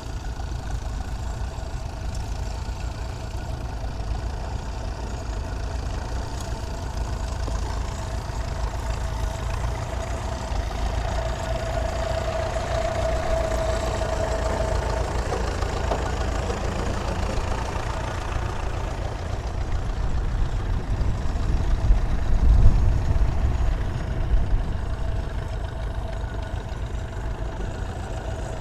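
Several vintage Ferguson tractors' engines running as they work a field, a steady low engine sound. A higher note stands out for a few seconds around the middle, and the engines get louder for a few seconds a little past two-thirds of the way in.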